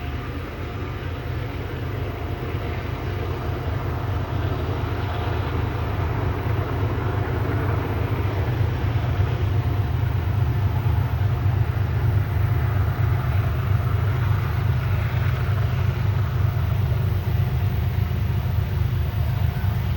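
Diesel locomotives of a freight train working upgrade, a steady deep engine rumble that grows louder over the first several seconds as the train comes closer, then holds.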